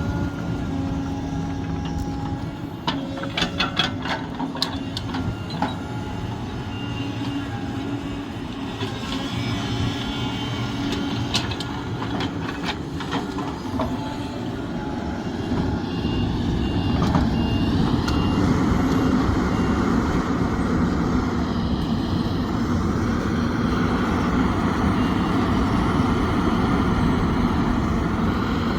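Large excavator's diesel engine running under work, with scattered sharp knocks and clanks in the first half. The engine gets louder about two-thirds of the way in as it takes on load, and a reversing alarm beeps at intervals.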